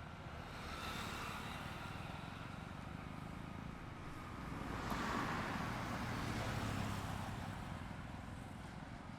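Highway traffic passing by: tyre and engine noise swells as one vehicle goes past about a second in, then a louder one with a low engine hum passes from about five to seven seconds in.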